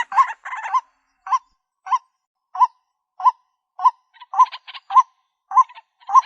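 White-breasted waterhen (ruak-ruak) calling: a steady string of short, upward-hooked honking notes, about one every 0.6 seconds. Harsher, raspy croaks run under the notes at the start and again about two-thirds of the way in. This is the repetitive call that is played as a lure to draw waterhens in.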